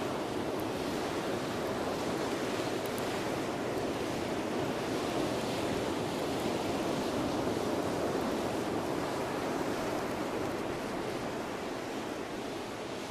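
Steady rushing of surf on the beach, swelling a little and easing off near the end, with a few faint sharp crackles from a beach bonfire.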